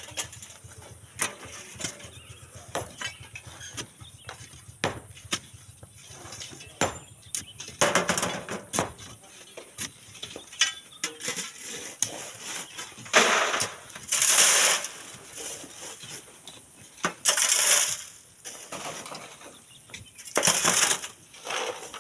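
Hand shovels digging in sand and gravel: irregular scrapes and stony clinks, with several longer rushes of sand and stones, the loudest two about halfway through and near the three-quarter mark.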